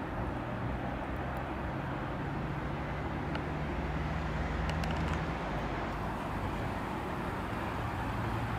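Steady low rumble of the Amtrak Auto Train's last enclosed autorack cars rolling away along the track.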